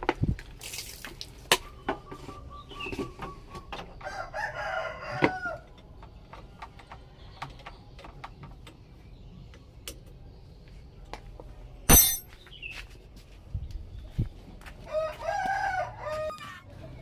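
A rooster crowing twice, each crow about a second and a half long, the second coming about ten seconds after the first. Scattered clicks and knocks sound in between, the loudest a sharp knock in the middle.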